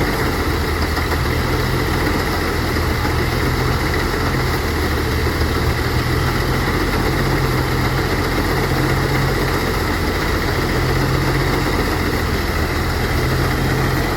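Engine-driven rice threshing machine running steadily, its engine humming under the clatter and rush of the threshing drum.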